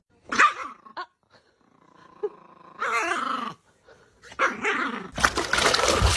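A dog vocalizing in several short bursts: a pitched, wavering call in the middle and a louder, rougher burst near the end.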